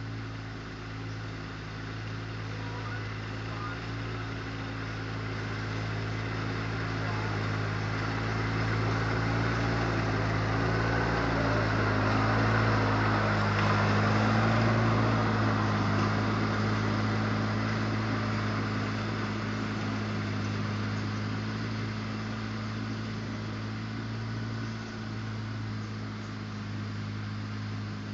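Lawn tractor engine running steadily, growing louder toward the middle and easing off again near the end.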